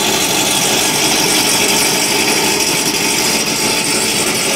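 Sixth-generation Chevrolet Camaro's engine and exhaust running steadily as the car creeps slowly in a shop bay.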